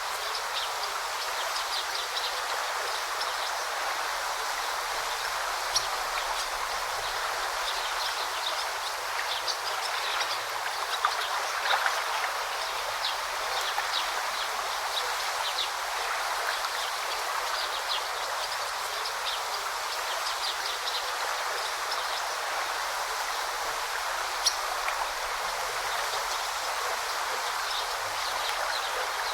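Forest river or stream flowing with a steady babbling rush, with short high bird chirps scattered throughout.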